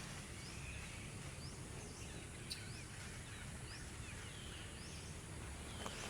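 Steady outdoor background noise with faint, short rising bird chirps repeating through it, and one faint click about two and a half seconds in.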